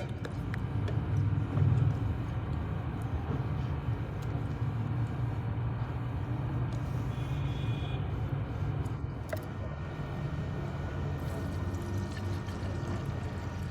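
Steady low mechanical rumble, with a few faint ticks and a brief higher tone about seven seconds in.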